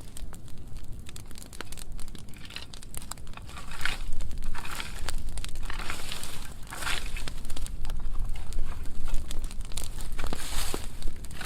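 Dry brushwood burn pile burning, crackling with many sharp pops and short hissing flare-ups over a steady low rumble.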